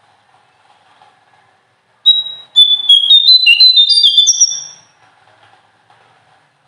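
A small songbird singing one quick phrase of clear, high whistled notes that jump between pitches for about three seconds, starting about two seconds in and ending on a higher drawn-out note.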